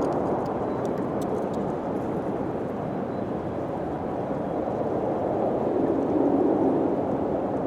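Howling wind: a steady rushing noise with a low, wavering moan that swells about six seconds in.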